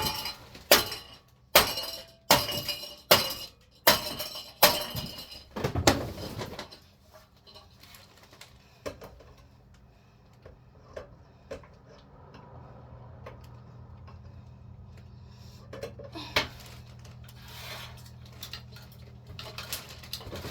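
A ceiling fan being smashed: about eight hard blows less than a second apart, each with a clattering, clinking break of parts. Then only small scattered clinks, a faint low hum and one more knock.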